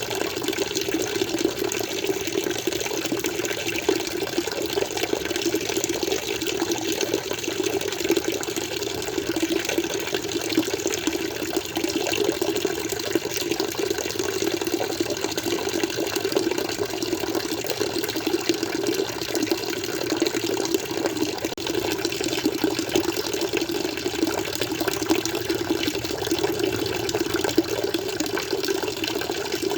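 Water flowing steadily in an aquarium, an even, unbroken rush with no pauses or changes.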